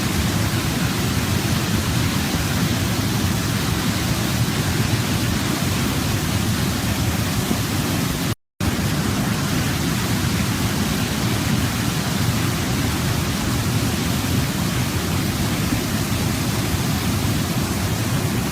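Waterfall: steady rushing of falling water, an even noise heaviest in the low range. It drops out to silence for a split second a little before halfway through, then carries on unchanged.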